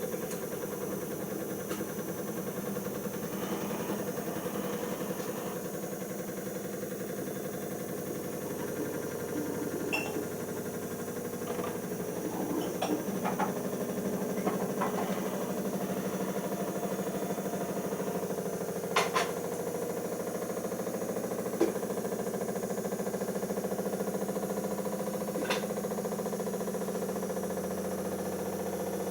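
Siemens iQ 1430 washing machine running in its spin stage after the main wash, with the no-spin option set: a steady hum that does not rise in pitch, with occasional short clicks and knocks from the drum.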